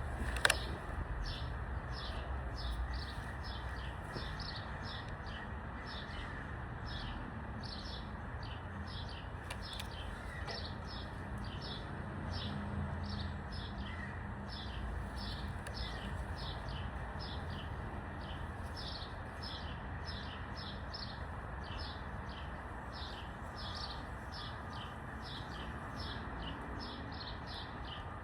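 A bird chirping over and over, short high chirps about two a second, over steady outdoor background noise. A single sharp click about half a second in.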